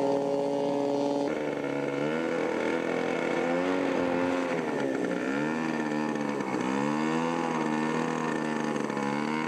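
Engine of a large-scale radio-controlled model airplane running. Its pitch holds steady for about the first second, then rises and falls repeatedly.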